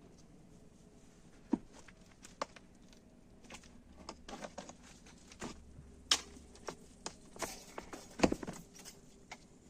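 Irregular knocks, clicks and light clatters of objects being handled, the loudest knock about eight seconds in.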